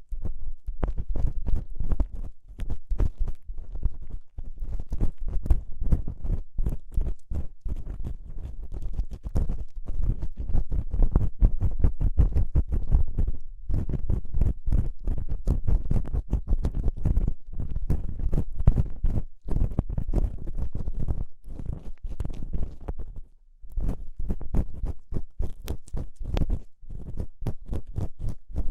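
ASMR ear cleaning: an ear-cleaning tool scraping and rubbing right at the microphone's ear in rapid, continuous strokes with a heavy low rumble, broken by a few short pauses.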